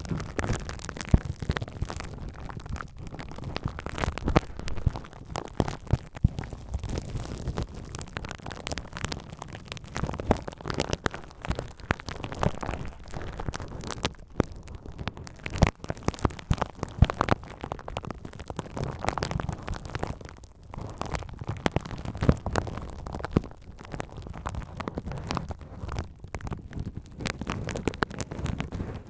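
Bubble wrap being handled and crinkled close to the microphone: continuous irregular crackling with a few louder sharp pops.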